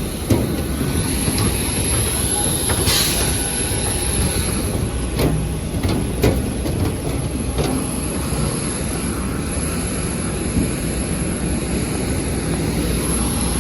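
Steady vehicle running with a rumble, a constant high whine and scattered clicks and rattles.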